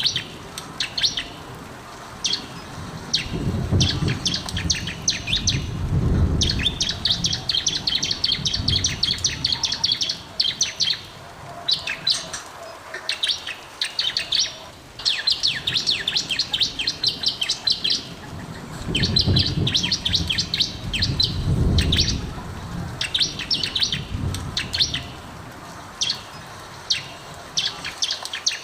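Bar-winged prinia (ciblek) singing in full voice: rapid high-pitched chirping trills in bursts of one to a few seconds, one after another. A low rumble sounds under it twice, a few seconds in and again about two-thirds of the way through.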